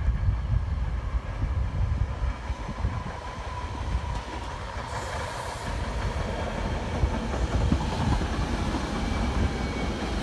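SEPTA electric multiple-unit commuter train passing close by, a continuous rumble of wheels on rail with a faint steady whine riding over it through the middle.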